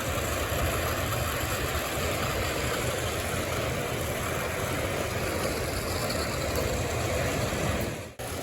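O gauge model trains running on the layout: a steady rumble of motors and wheels on the track. The sound briefly drops out near the end.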